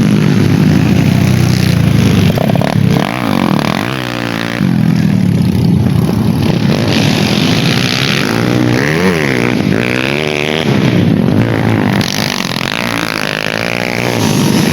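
Dirt bike engines revving hard during a race, the pitch climbing and dropping again and again as the bikes accelerate, shift and pass.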